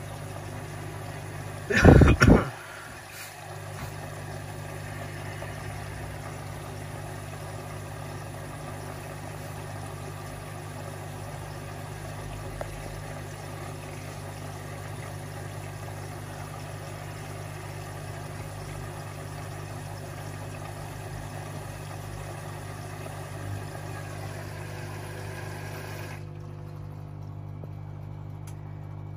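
Washing machine running mid-cycle with a steady low hum and a hiss over it. About two seconds in comes a brief loud burst of noise, and near the end the hiss stops, leaving only the hum.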